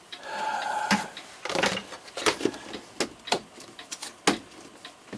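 Lid being fitted onto a container of clock-parts cleaning solution: a brief squeak near the start, then a string of irregular clicks and knocks as it is handled and pressed on.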